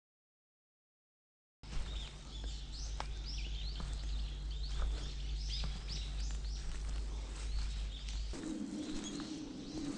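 Wild birds chirping, many short repeated calls, over a low outdoor rumble; they start suddenly about a second and a half in after dead silence. Near the end a steadier low noise joins in.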